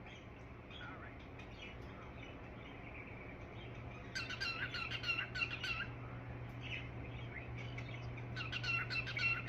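Pet bird chirping its "dippy doos" call, the one its owner asked for: quick runs of short repeated chirps starting about four seconds in and again near the end, over a faint steady hum.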